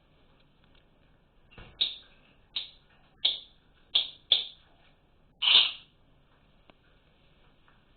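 A bird chirping: six short, sharp calls at uneven intervals over about four seconds, the last one longer and louder than the rest.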